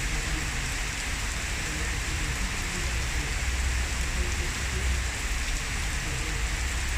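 Heavy rain pouring down in a steady downpour, an even hiss of water without letup.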